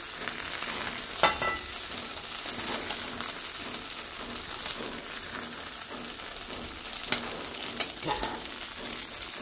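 Masala-coated shrimp sizzling in a little oil in a shallow pan over a gas flame. A metal spatula knocks and scrapes on the pan about a second in and a few more times near the end as the pieces are turned.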